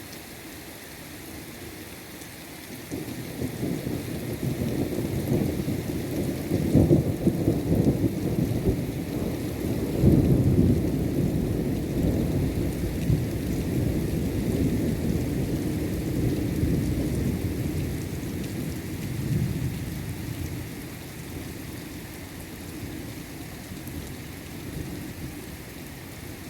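Heavy rain falling steadily, with a long roll of thunder. The thunder builds about three seconds in, is loudest twice in the middle, and rumbles away over the next ten seconds.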